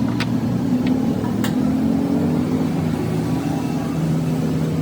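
An engine or motor running steadily, with a few light clicks in the first second and a half.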